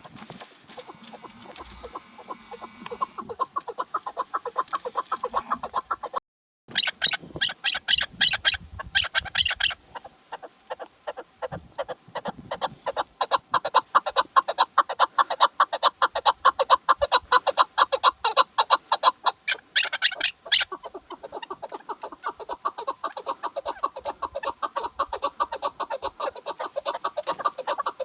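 Chukar partridge (chakor) calling in a long, fast series of evenly repeated notes, several a second, with a brief silent gap about six seconds in.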